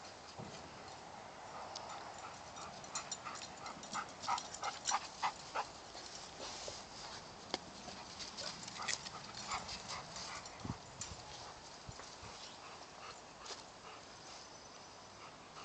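A golden retriever making a quick run of short, evenly spaced rhythmic sounds about three to five seconds in, followed by scattered light clicks.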